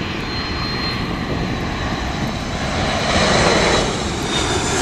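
Jet airliner's engines running loud as it passes close on landing, a steady roar with a thin high whine, swelling about three seconds in.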